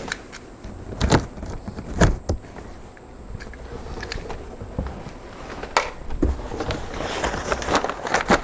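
A cardboard shipping box holding an exhaust kit being opened and unpacked: scattered knocks and clunks of handling, then a longer stretch of crinkly rustling near the end.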